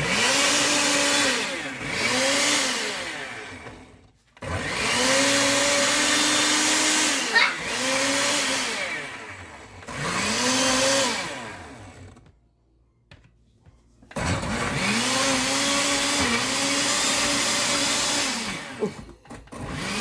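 Kitchen blender pulse-blending a thick Oreo milkshake of ice cream, milk and cookies: the motor spins up, runs for one to four seconds and winds down, about five times with short pauses between runs.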